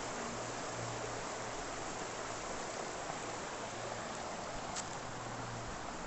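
Small stream flowing, a steady rush of running water.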